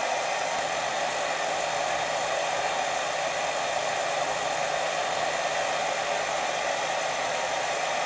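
Steady white noise: an even, unbroken hiss, strongest in a band in the lower middle of the range.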